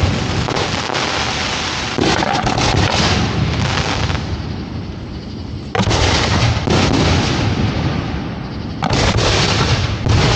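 Fireworks show firing at close range: aerial shells launching and bursting in sudden loud booms about 2, 6 and 9 seconds in, each followed by a few seconds of dense crackling.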